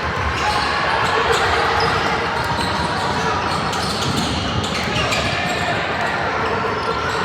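Basketball being dribbled during a youth game, with a haze of indistinct voices from players and spectators.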